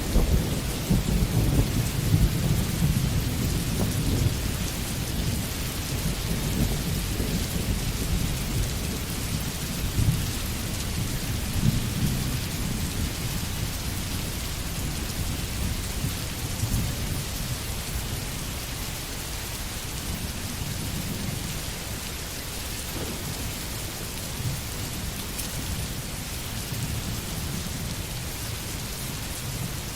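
Steady rain falling in a forest, with a low rumble underneath that is loudest in the first few seconds and gradually fades.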